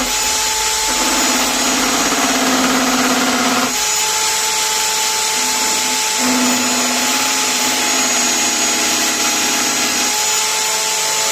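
Homemade drill-powered wood lathe running with a steady motor whine, and a lower drone that comes and goes twice.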